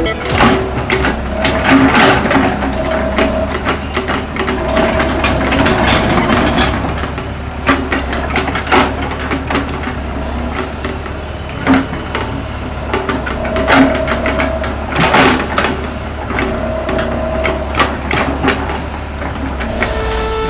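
Hitachi excavator working: the engine runs steadily with a hydraulic whine that comes and goes, and there are several sharp metallic clanks.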